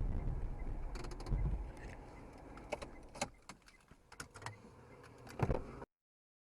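Low vehicle rumble that fades, with scattered sharp clicks and knocks, then cut off suddenly to dead silence near the end.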